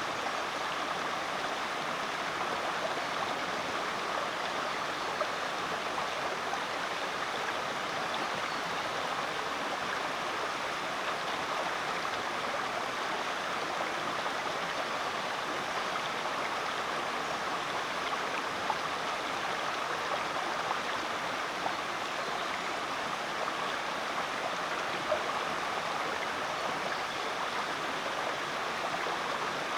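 Rainforest creek flowing steadily over rocks, a constant rush of running water with small splashes.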